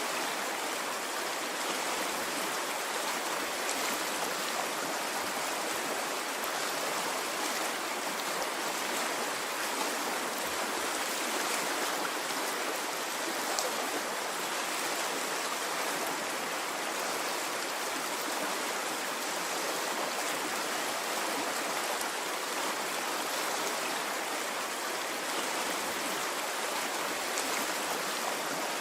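A stream of water flowing steadily, a continuous rushing and babbling without surges or pauses.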